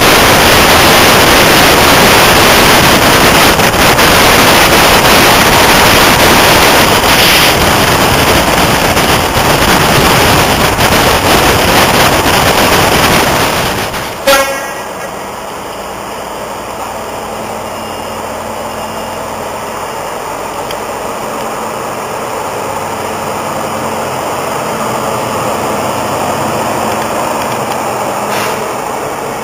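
Loud wind and rail noise rushing past from the window of a moving High Speed Train (InterCity 125). About halfway through it cuts off with a click. A quieter, steady sound of a First Great Western HST power car at a station follows and builds slightly near the end.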